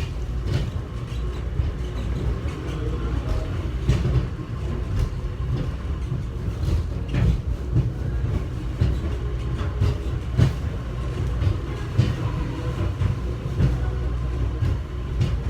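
Airport subway train running between stations, heard from inside the car: a steady low rumble with scattered clanks and knocks.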